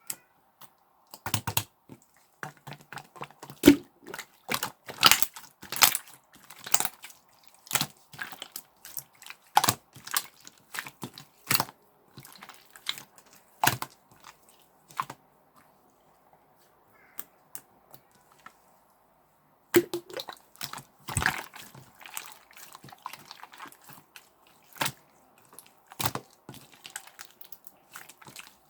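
Clear slime being squished and poked by hand, making irregular sticky clicks and little popping crackles, with a pause of a few seconds about halfway through.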